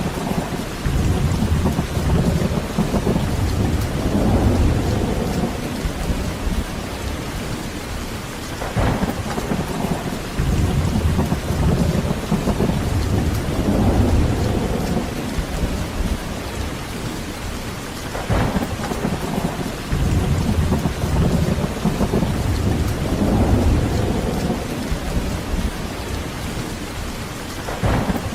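Steady heavy rain with rolling thunder. Each rumble opens with a sharper crack and rolls on for several seconds, recurring about every nine seconds.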